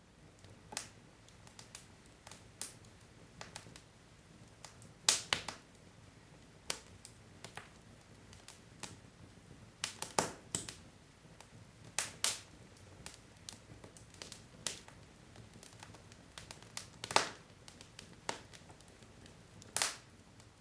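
Wood fire crackling in a fireplace: burning logs give off irregular sharp pops and snaps, a few of them much louder, over a faint low hiss of flame.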